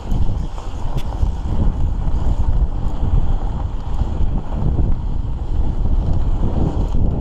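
Wind buffeting the microphone of a mountain biker riding downhill on a dirt trail, a steady low rushing, with a couple of sharp rattling clicks from the bike about a second in.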